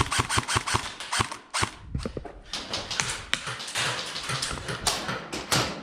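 Airsoft guns firing in semi-automatic, an irregular run of sharp clicks and snaps several times a second, mixed with BBs striking nearby surfaces.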